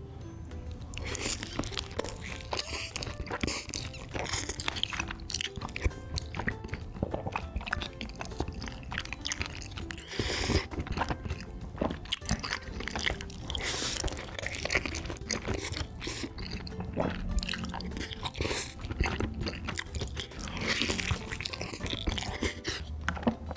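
Crunching and chewing as bites are taken from a potato-cube-coated Korean corn dog dipped in rose tteokbokki sauce and melted cheese, with many sharp crunches.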